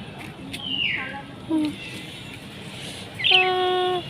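Bird chirping: a falling chirp early on, then a quick high chirp leading into a loud, steady held call near the end.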